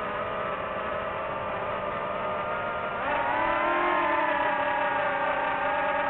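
Quadcopter drone's motors and propellers whining steadily, with a rise in pitch and loudness about three seconds in as the motors speed up.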